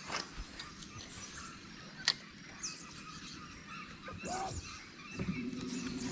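Birds calling around the creek, scattered chirps and a longer low call near the end, with a sharp click about two seconds in.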